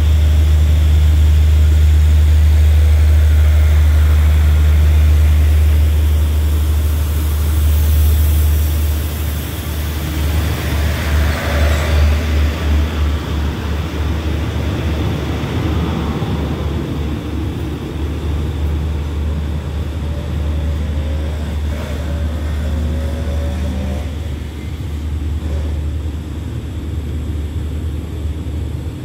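Express passenger train pulling out of the station, its coaches rolling past with a low rumble. A run of rhythmic wheel clacks comes about a third of the way in, and then the sound fades as the train moves off.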